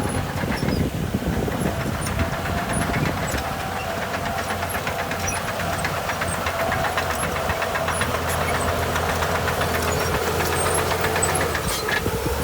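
Heavy diesel engine of earthmoving machinery running steadily, with a fast, even beat and a low hum.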